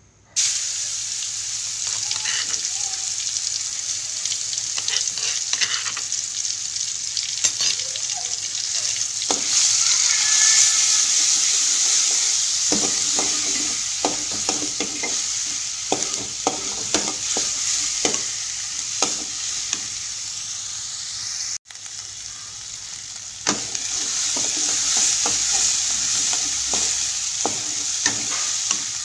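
Pounded spice paste hits hot oil in an aluminium wok and starts sizzling at once, with a steady frying hiss. From about halfway, a metal spatula scrapes and knocks against the wok as the paste is stirred. The sound cuts out briefly past the middle and then carries on.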